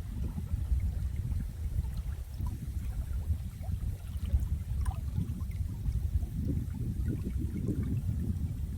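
Running water: a steady low, churning rush with small scattered drips and bubbles over it.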